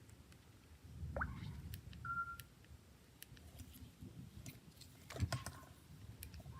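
Light clicks and taps of a Samsung Galaxy smartphone being handled. There is a short rising chirp about a second in, a brief steady beep about two seconds in, and a cluster of louder clicks a little after five seconds.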